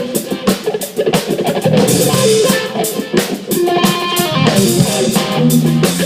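Live rock band playing an instrumental passage between vocal lines: guitar over a steady drum kit beat.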